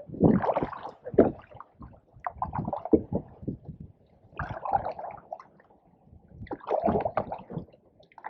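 Canoe paddle strokes in pond water: a gurgling splash and swirl with each pull, about every two seconds, with small knocks in between.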